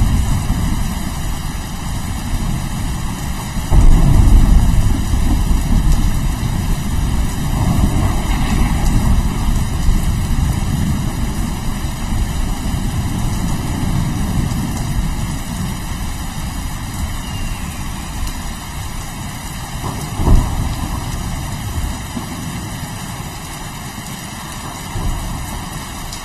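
Steady rain with thunder: a loud rolling rumble breaks in about four seconds in and fades slowly, and a shorter, sharper clap comes about three-quarters of the way through.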